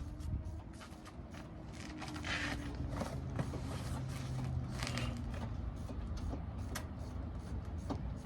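Tools and metal parts worked on a car during an engine swap: scattered clicks, taps and creaks over a faint steady low hum.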